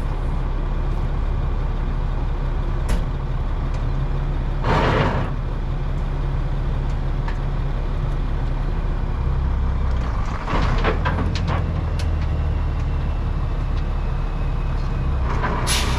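Heavy diesel truck engine running steadily, with short bursts of air hiss about five seconds in, again around eleven seconds, and near the end.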